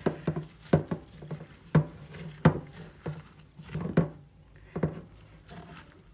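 A utensil mashing and stirring soft lard with bird seed and oats in a bowl: irregular clicks and knocks against the bowl, about one or two a second, over a faint steady hum.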